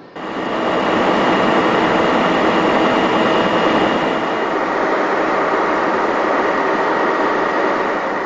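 Loud, even rushing noise of a train running at speed, with a few faint steady tones in it; it cuts in suddenly and fades out near the end.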